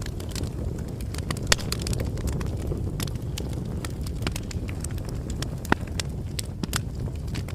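Bonfire burning: a steady low rumble of flames with scattered crackles and sharp pops of wood, the loudest pops about a second and a half in and near six seconds.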